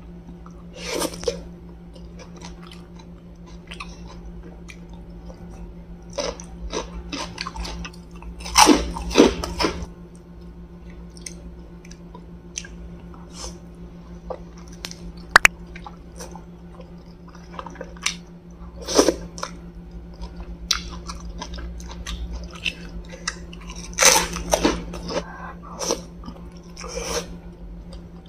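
A person chewing fried wontons up close to the microphone, wet chewing broken by louder crunchy bites about a second in, around 9 s, 19 s and 24 s. A single sharp click comes about halfway through, over a steady low hum.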